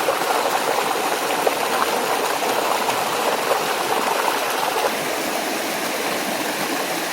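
A small waterfall and stream running steadily, with a few faint short gurgling sounds over it during the first five seconds.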